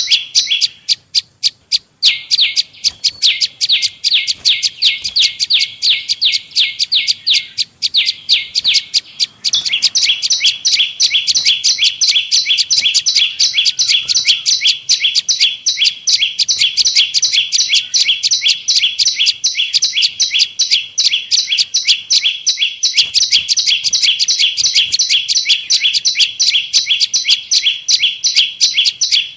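Prenjak lumut call played as a bird-trapping lure: a fast, unbroken series of high, downward-sweeping chirps, about five a second, pausing briefly twice in the first ten seconds.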